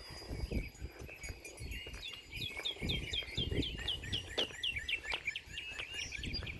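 A songbird singing a quick run of downslurred whistled notes, about four a second, starting about two seconds in, with other bird chirps around it.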